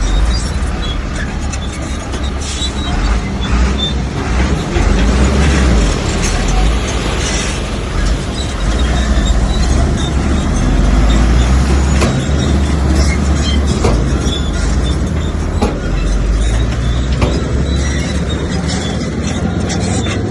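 Heavy diesel earthmoving machinery running under load, a steady deep rumble with scattered knocks and clinks of stone throughout.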